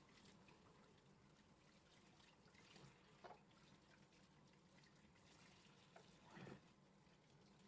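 Near silence: faint room tone with a couple of soft, brief knocks.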